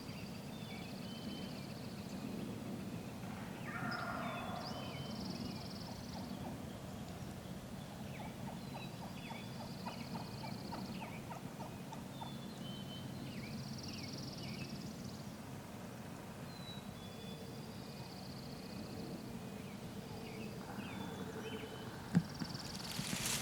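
Wild turkeys gobbling and calling at a distance several times, over a quiet outdoor background with other small bird calls. A single sharp click sounds near the end.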